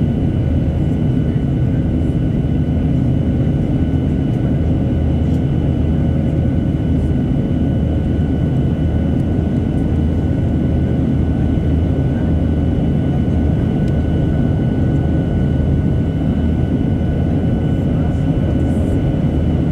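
Steady rumble of a Boeing 737-800's CFM56 jet engines and rushing air in flight, with a few thin steady whining tones above it and no change throughout.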